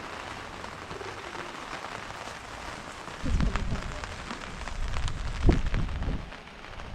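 Light rain falling in a steady patter of drops. Low rumbling thumps come in about three seconds in and again around five and a half seconds, the second louder.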